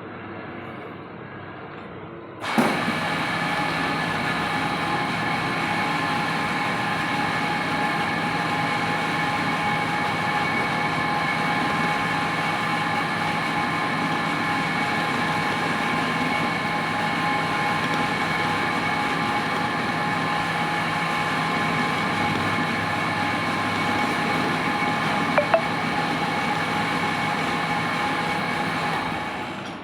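Metal lathe running steadily, a machine whine made of several fixed tones, starting abruptly about two and a half seconds in over a quieter hum and fading near the end. A couple of sharp clicks sound late on.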